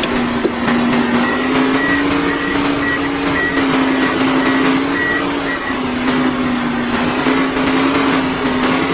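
A vehicle engine runs steadily with a slight wavering pitch. For about four seconds near the middle, a high reversing alarm beeps rapidly, about twice a second.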